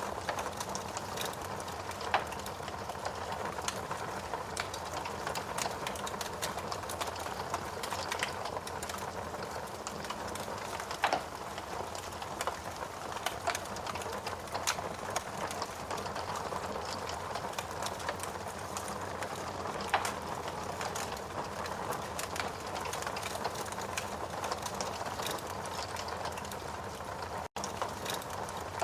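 Steady rain hiss mixed with a crackling wood fire: frequent small crackles and a few louder pops. The sound drops out for a split second near the end.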